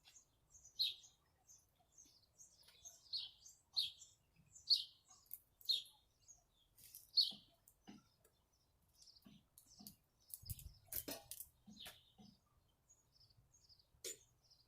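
A bird chirping: single short, high chirps about once a second, fading out about halfway through, followed by a few soft clicks and knocks.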